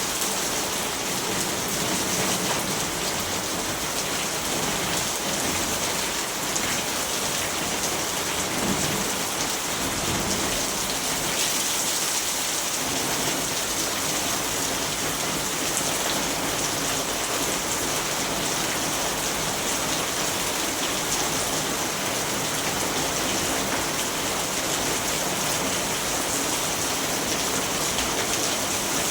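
Steady, even rainfall, a continuous hiss of drops without a break.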